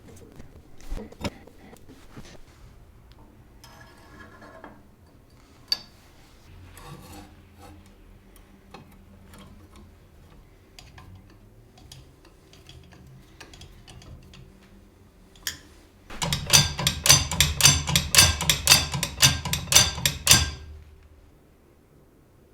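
Scattered light metallic clicks and knocks, then a loud run of rapid clicking, about five clicks a second, for about four seconds before it stops.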